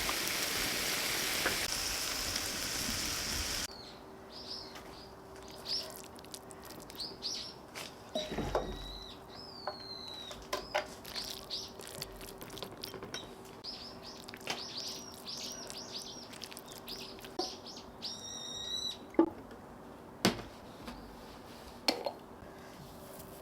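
A steady hiss for the first few seconds, which cuts off abruptly. Then songbirds chirp and whistle over and over, in short high calls, over a faint steady hum.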